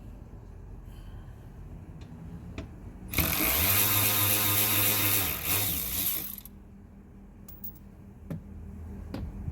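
A ratcheting power tool runs for about three seconds, a loud continuous whirring-rattle with a steady motor hum, with a few small clicks and taps before and after.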